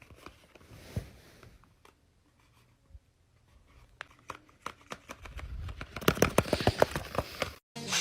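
A folded paper dragon puppet being handled: stiff paper rustling with scattered sharp clicks, growing in the second half into a fast run of clicks and crinkling that cuts off abruptly near the end.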